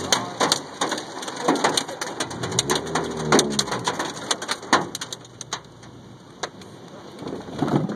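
Hailstones and rain striking a car body in irregular sharp taps, with a low tone that rises and falls about three seconds in; the taps thin out after the halfway mark.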